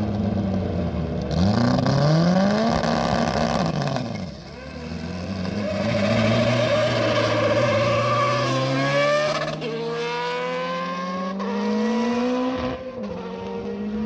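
Lola F3000's Judd V8 racing engine revving once, then accelerating hard through the gears: the pitch climbs, drops sharply at each upshift about three times near the end, and climbs again.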